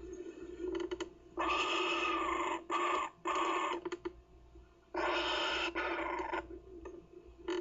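Kookaburra chick giving a series of harsh, rasping calls, each half a second to a second and a half long, with short pauses between, over a faint steady hum.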